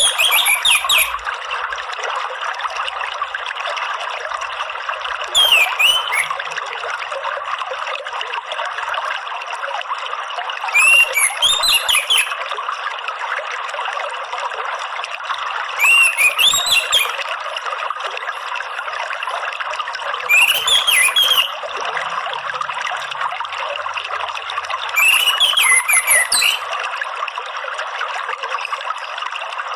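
Steady trickling of running water, with an orange-headed thrush (anis merah) singing a short phrase of quick sweeping whistled notes about every five seconds, six times.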